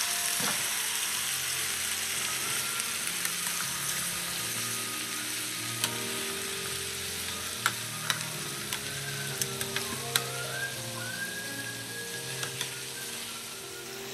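Chicken thighs and drumsticks frying with onion and green bell pepper in a nonstick pan: a steady sizzle, with a few sharp clicks of metal tongs against the pan about halfway through. Faint background music plays under it.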